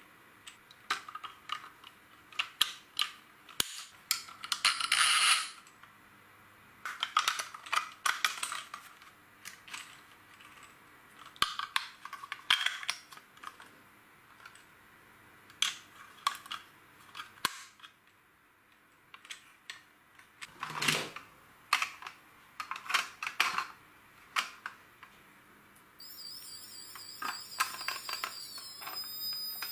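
LEGO bricks clicking and rattling as they are handled and snapped together, in irregular runs of sharp plastic clicks. Near the end a high, wavering tone joins in.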